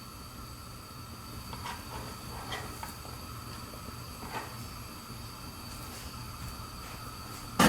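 Sliced shallots frying in hot oil in a pan, a steady sizzle with a few faint crackles. A sharp click comes right at the end.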